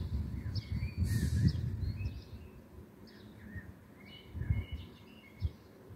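Small birds chirping and singing, with short calls repeating about every half second to second and a few gliding notes, over an irregular low rumble. There is a brief hiss about a second in.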